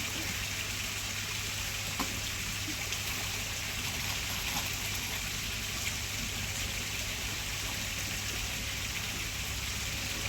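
Steady trickling, running water, with a low steady hum underneath and a faint tick about two seconds in.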